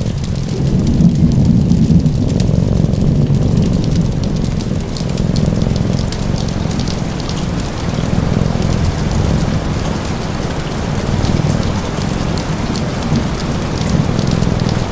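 Ambient sleep-sound mix of steady rain, with a low rumble underneath that swells between about one and three seconds in, and scattered small fire crackles.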